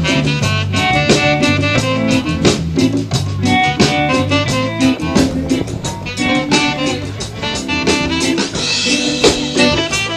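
A band playing an instrumental stretch with no singing: saxophone over guitar and a steady drum-kit beat.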